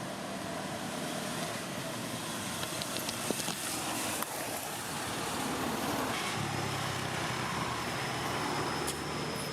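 Steady outdoor background noise with the character of distant road traffic, with a few light clicks and a thin high whine coming in about two-thirds of the way through.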